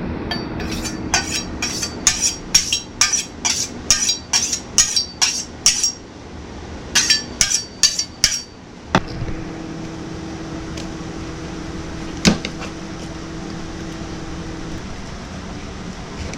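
Knife cutting a smoked spatchcock chicken down the middle: a regular run of crisp cutting strokes, about two to three a second, then a short pause and four more strokes. After that a steady low hum, broken by one sharp knock.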